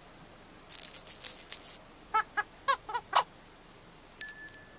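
Playful cartoon sound effects: a brief high rattling shimmer, then five short squeaky chirps, then a high ringing electronic tone near the end.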